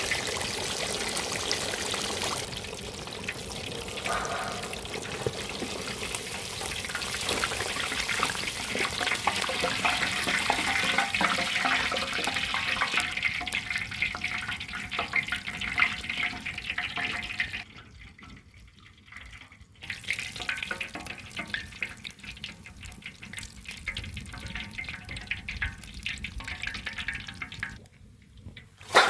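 Water pouring and splashing in a steady rush. It cuts off abruptly twice, about two-thirds of the way through and again near the end, and a single sharp knock closes it.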